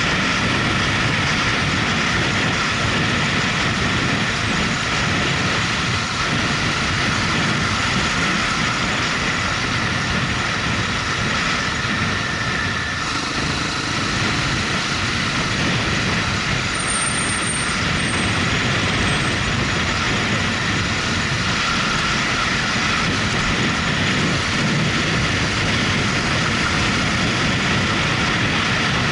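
A motorcycle underway, its engine and the rush of wind and road noise holding steady.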